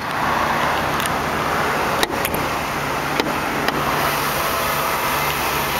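Supercharged 4.2-litre V8 of a 2005 Jaguar S-Type R idling steadily, with a few sharp clicks and knocks as the hood's safety latch is worked by hand.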